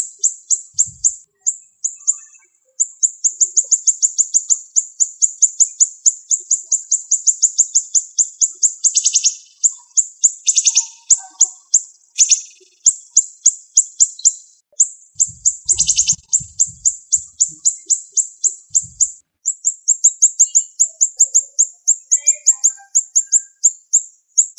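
Siri-siri bird singing rapid strings of sharp, high-pitched notes, fast and closely spaced, in bursts of several seconds with short pauses between them.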